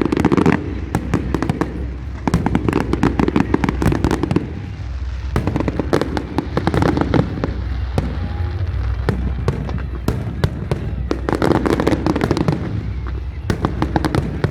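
A large fireworks display heard from the crowd: a dense, continuous barrage of crackling bursts and sharp bangs over a deep rumble of booming shells, thickest in the first few seconds and again near the end.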